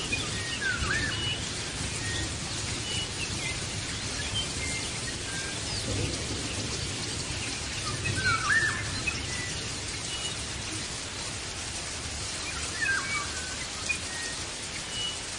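Birds calling and chirping: many short, high whistled notes, with a louder swooping call about a second in, another (the loudest) around the middle and a third near the end. Beneath them is a steady hiss of noise.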